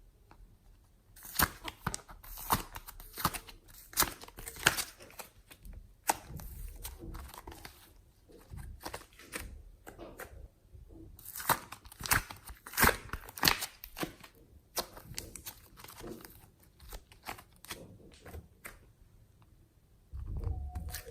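Slime being squeezed, stretched and folded by hand, giving runs of sharp crackling pops. There are two louder spells of popping, with quieter crackling between them and a soft low thud near the end.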